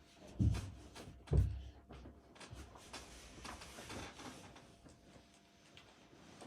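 Handling noise: two dull thumps about a second apart, then a few seconds of rustling with small clicks.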